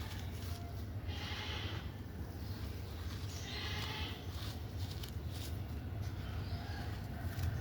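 Dried purple sand and gym-chalk pieces being crumbled by hand, with two soft crunchy bursts, one about a second in and one near the middle, and a few faint crackles, over a steady low hum.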